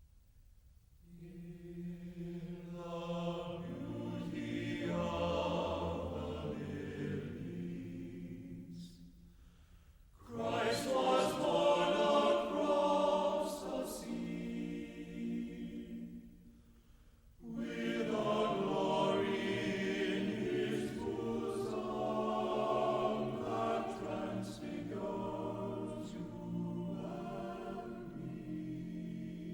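Choral music with voices holding sustained chords in three long phrases, broken by short pauses about ten and seventeen seconds in.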